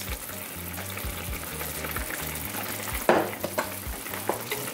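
Chicken pieces sizzling steadily in sauce in a skillet, with a wooden spoon scraping and knocking against the pan about three seconds in.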